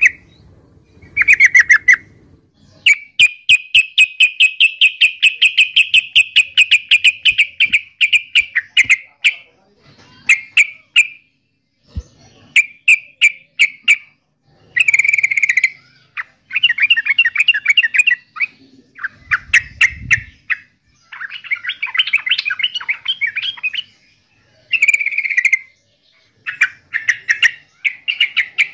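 Yellow-vented bulbul singing in repeated bursts of rapid, bubbly chirping notes, including one long fast run of notes lasting several seconds near the start.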